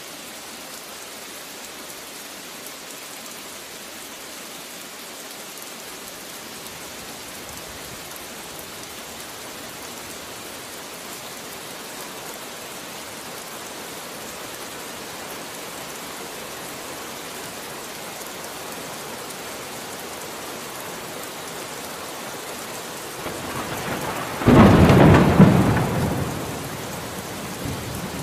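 Steady rain falling, then a loud clap of thunder that rumbles and fades over a few seconds near the end.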